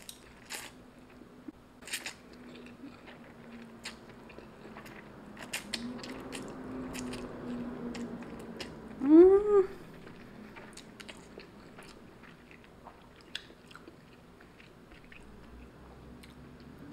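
A person slurping instant fried noodles and then chewing them, with many small wet mouth clicks and smacks throughout. About nine seconds in comes a short hummed 'mmm' that rises and falls, the loudest sound.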